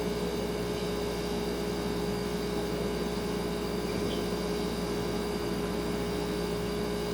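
Refrigerator humming steadily: a constant mid-pitched tone over a low hum and soft hiss, unchanging throughout.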